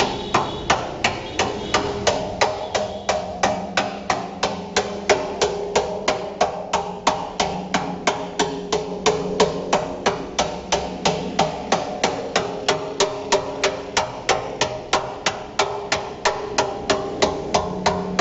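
Steady, rhythmic hammer blows on a thick steel oil drum being cut by hand, about three a second, each strike ringing like metal.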